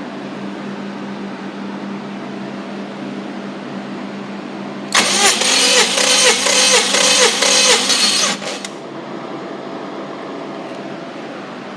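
Subaru EJ-series flat-four engine turned over by its starter motor for about three and a half seconds, with a regular pulsing beat, then cutting off without catching. A steady hum runs underneath.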